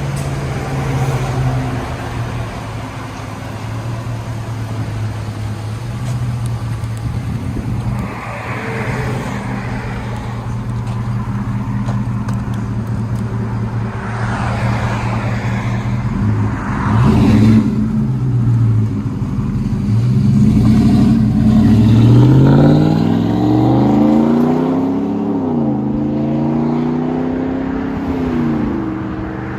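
2014 Ram 1500's 5.7 L Hemi V8 running through a Flowmaster Super 44 muffler and 2.5-inch tailpipes, a steady low note at first, then accelerating in the last third with the pitch climbing and dropping back twice as it shifts gears.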